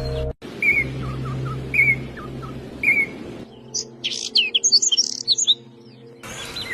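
Small songbirds chirping, in separate recordings joined by abrupt cuts. First a short chirp repeats about once a second over a low steady hum, then a bird gives quicker, higher-pitched chirps.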